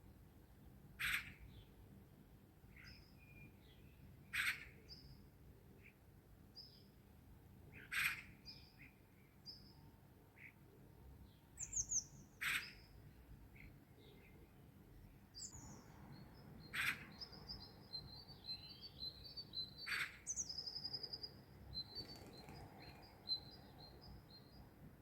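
Songbirds calling and singing: one bird gives a sharp, loud call about every three to four seconds, with softer high chirps from other birds in between. In the second half, a high, rapid trilling song joins in.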